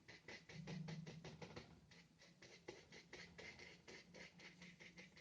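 Faint, quick scratchy strokes of a nearly dry paintbrush with gouache on paper, about four a second, pausing briefly about two seconds in.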